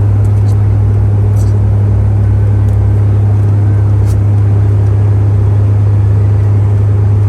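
Bombardier Q400's twin turboprops and propellers heard from inside the cabin: a loud, steady low propeller drone over a broad rush of engine and airflow noise.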